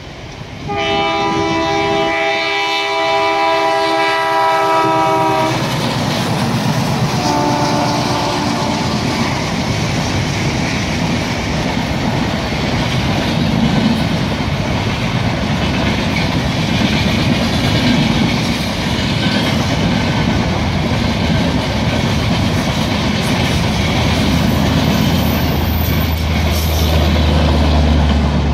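A diesel-hauled Indian Railways express train sounds a multi-note locomotive horn in one long blast and then a short second blast as it arrives. The locomotive and coaches then pass close by with a steady rumble and the clickety-clack of wheels over rail joints, and a low steady hum comes in near the end.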